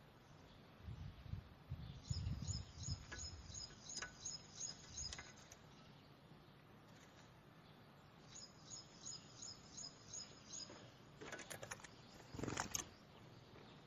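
A small bird calling in two runs of quick, evenly spaced high chirps, about three a second. Low rumbling sounds early on, and a few sharp knocks or scuffs near the end are the loudest sounds.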